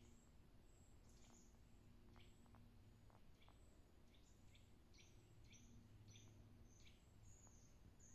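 Faint bird calls: a series of short, high chirps that come more often, about two a second, in the second half, over quiet background noise.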